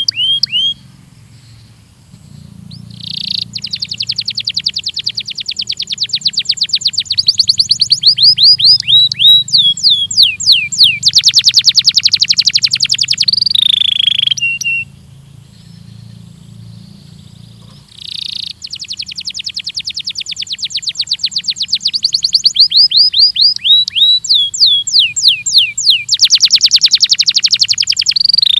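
Belgian canary singing long phrases of rapid trills and rolling, sliding notes, in two runs with a pause of a few seconds in the middle. A faint low hum sits underneath.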